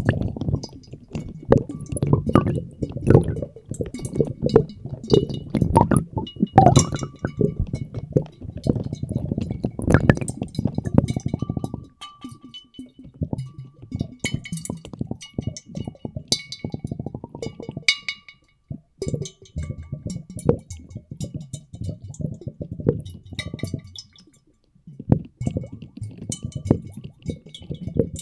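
Muffled underwater gurgling and sloshing, layered with small clinks and pops: water swished in glass bottles and a microphone dunked in a bucket of water. It goes in irregular surges, with brief lulls about twelve seconds in and again near the end.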